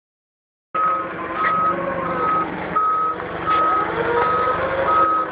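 A reversing vehicle's backup alarm beeping at a steady, even pace over its running engine, starting under a second in.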